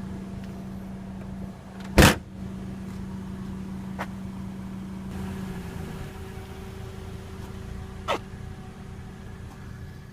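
Steady low hum of the Toyota Corolla's four-cylinder engine idling, its pitch dipping slightly about six seconds in. A sharp, loud knock comes about two seconds in and a smaller one about eight seconds in.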